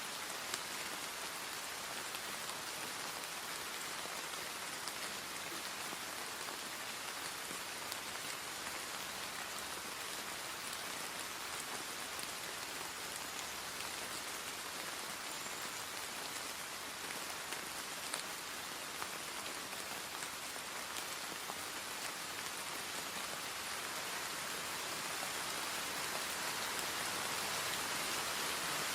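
Steady hiss like falling rain, with a few faint ticks, growing slightly louder near the end.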